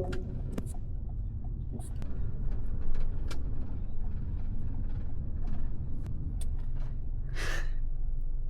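Steady low rumble of road-vehicle traffic or a vehicle running, with scattered light clicks and a brief hiss about seven and a half seconds in.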